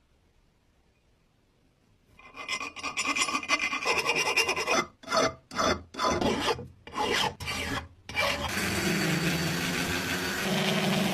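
Abrasive rasping and scraping on the coin bank's surface. It starts about two seconds in, breaks into about five separate strokes in the middle, then runs on continuously near the end.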